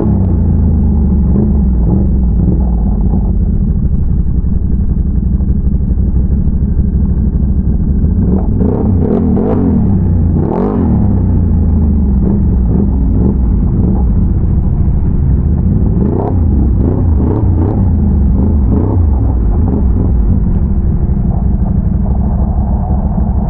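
ATV engine running steadily under way, with a few rattles and knocks partway through and again later on.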